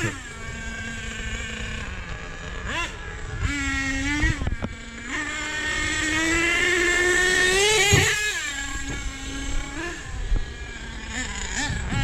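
Small two-stroke glow (nitro) engine of a radio-controlled monster truck running under throttle, its pitch swinging quickly up and down near the start, then climbing steadily for a couple of seconds before dropping sharply about eight seconds in.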